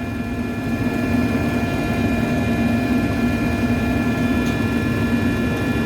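Steady drone of rooftop HVAC machinery running: a low rumble with a strong steady hum and several fixed higher whining tones above it.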